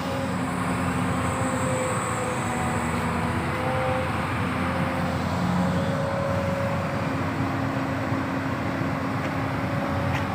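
Komatsu PC200-7 excavator's diesel engine running steadily, with a steady hum.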